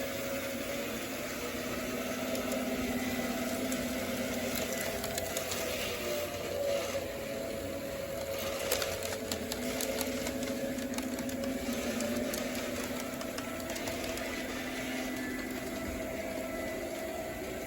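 O gauge model trains running on the layout: a steady electric-motor hum that rises and falls gently in pitch as they run, with a run of clicks about halfway through.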